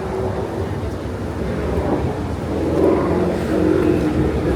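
Street traffic: a motor vehicle's engine accelerating, louder from about halfway through.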